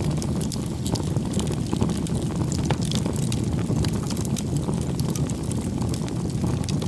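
Wood fire crackling: many small sharp pops and snaps scattered over a steady low rumble.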